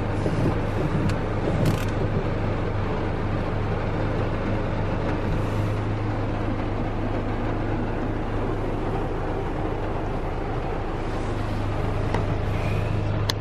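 Heavy rain falling on a vehicle, heard from inside the cabin, over the steady low hum of its engine idling. A few faint clicks come through now and then.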